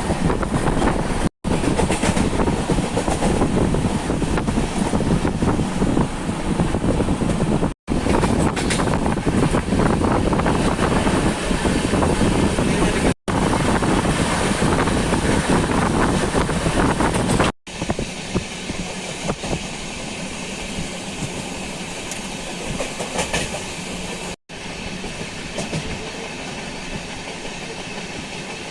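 Passenger train in motion heard from inside a carriage: wheels clattering over the rails with a steady running rumble. It comes in several short pieces that cut off abruptly, and it is quieter for the last third.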